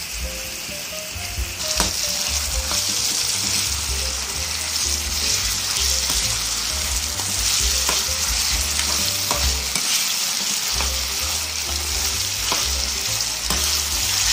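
Carrots, onion and garlic sizzling in hot oil in a wok, being stirred with a spatula that scrapes the pan now and then. The sizzle grows louder about two seconds in.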